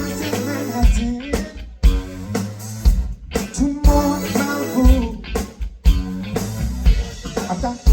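Live funk band playing an instrumental groove: a guitar riff over bass and kick drum on a steady beat, with no lead vocal.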